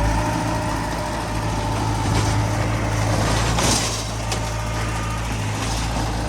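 Heavy diesel machinery engine running steadily with a deep hum. A brief hiss comes about three and a half seconds in.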